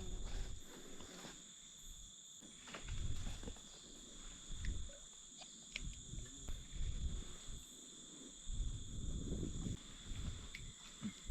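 Steady, high-pitched insect chorus, with scattered low bumps and knocks of handling beneath it.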